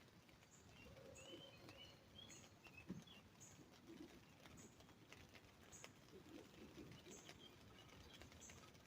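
Faint birdsong with the last drips of rain tapping on an umbrella. A few short rising-and-falling bird calls come in the first couple of seconds, low calls are heard now and then, and a short high note repeats about once a second.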